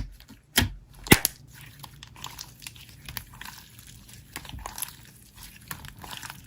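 Slime being squished and worked by hand: two sharp clicks about half a second and a second in, then a run of small, irregular wet crackles and pops.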